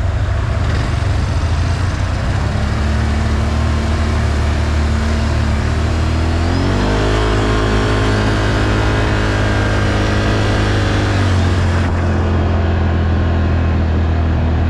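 ATV engine running while riding a muddy trail. It revs up about seven seconds in, holds the higher pitch for a few seconds, then drops back.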